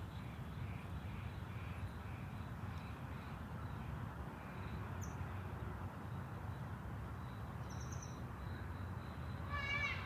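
Outdoor ambience of faint, repeated bird chirps, about two a second, over a low steady rumble, with a couple of brief high chirps later on. A louder, rapidly repeated call starts just before the end.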